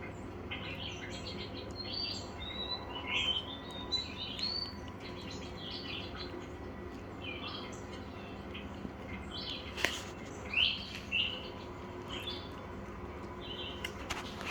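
Small songbirds chirping and twittering in rapid, high-pitched runs of short notes, with one sharp click about ten seconds in.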